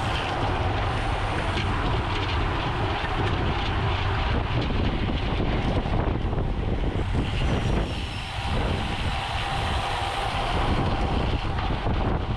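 Steady rush of wind on the microphone of a camera riding along on a racing bicycle, with road noise beneath and a faint steady hum.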